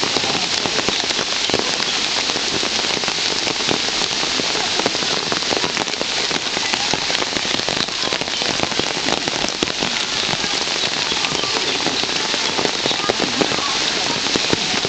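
Steady rain falling, with many single drops striking close by.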